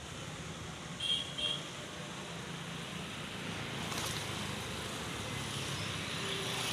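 Steady road traffic noise, with two short high-pitched chirps about a second in.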